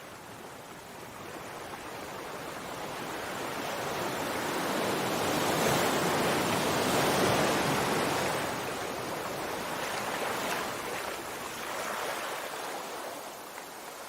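Sea waves washing on a shore: the surf swells to its loudest about halfway through, then ebbs with a couple of smaller surges.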